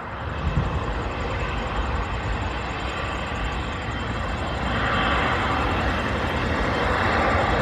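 Twin jet engines of a Boeing 777 at takeoff, a continuous rushing jet noise that grows louder about halfway through, with wind rumbling on the microphone underneath.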